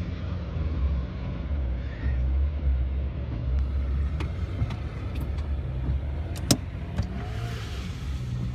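Steady low rumble of a moving car heard from inside, as picked up by a dash cam, with several irregular sharp clicks in the second half and one louder snap about six and a half seconds in.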